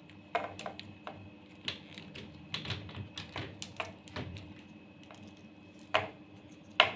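Plastic wiring connectors being pushed back into their sockets on a single-tub washing machine's control board: irregular light clicks and taps, with two louder snaps near the end.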